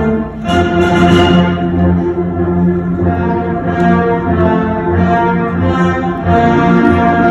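Concert band playing, with brass to the fore in held, sustained chords; a new phrase comes in about half a second in after a brief dip.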